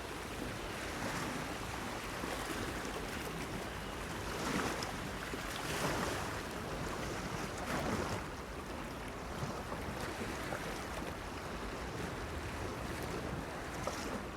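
Small waves washing and splashing against a breakwater pier: a steady wash with louder surges about four and a half, six and eight seconds in.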